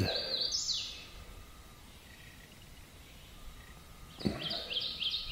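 Wild songbirds calling: a quick run of high notes falling in pitch in the first second, then a fast string of repeated high chirps from about four seconds in.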